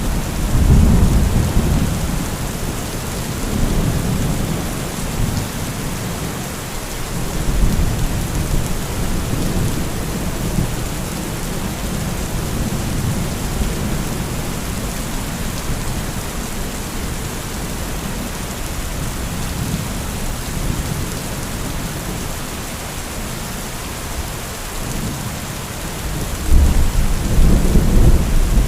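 Heavy rain falling steadily with thunder rumbling several times; the loudest rumble starts near the end.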